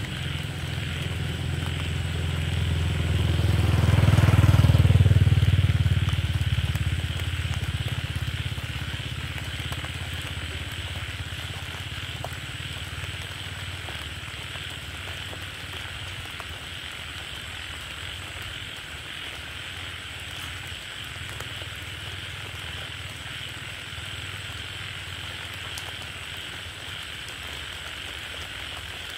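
A motor vehicle passing by: a low engine rumble that grows louder, peaks about four to five seconds in, then fades away slowly, over a steady high hiss.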